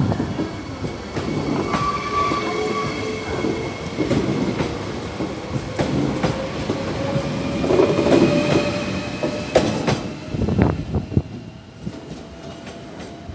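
Train running along the track, its wheels clacking over rail joints, with a thin whine slowly rising in pitch; it grows quieter about three-quarters of the way through.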